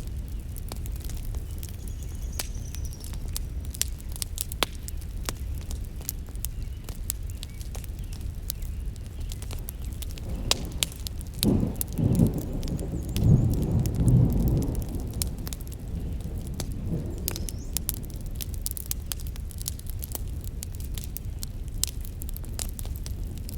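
Wood campfire crackling, with frequent sharp pops over a steady low rumble. About ten seconds in, a louder low whooshing swell rises and lasts a few seconds before settling back.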